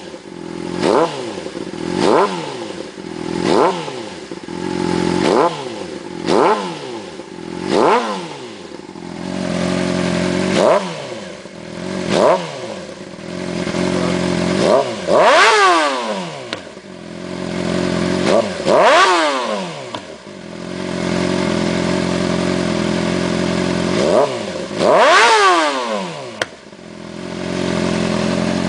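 Honda CBR600RR inline-four with an aftermarket exhaust idling and blipped about every second and a half, then revved harder a few times, the biggest revs reaching about 13,000 rpm; pretty loud.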